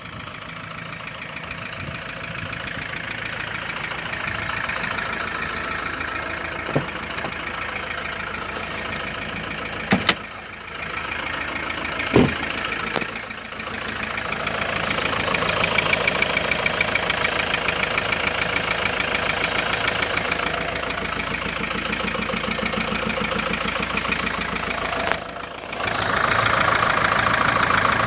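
Kia Sorento 2.5 diesel engine running, its speed rising and falling several times, with a few sharp knocks along the way. The engine has a knock that the owner likens to a hydraulic lifter or a valve.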